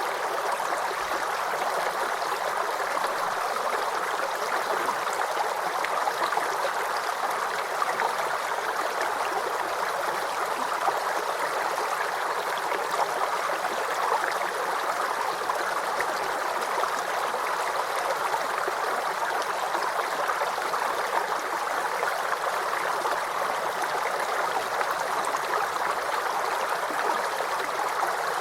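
Small creek babbling and gurgling over stones, a steady flow of water with fine splashing.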